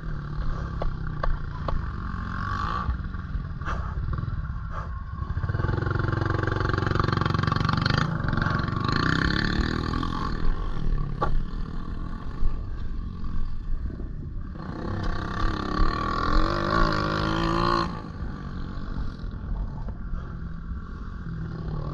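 Pit bike's single-cylinder engine revving up and down as the bike is ridden, pulling hardest in two long surges, with a drop in pitch about three-quarters of the way through.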